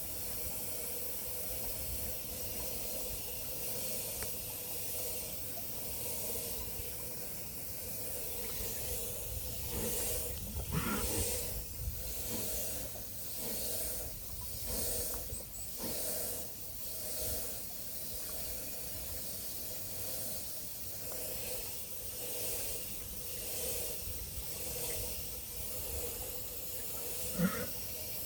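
Steady outdoor hiss with a low rumble of wind on the microphone. About ten seconds in comes a run of soft, irregular rustles and knocks lasting several seconds, and a short pitched chirp sounds near the end.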